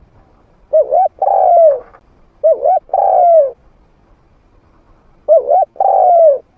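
A spotted dove cooing three times. Each phrase is two quick short notes followed by a longer falling coo. It is a medium-pitched trained male's call, used as a hunting decoy.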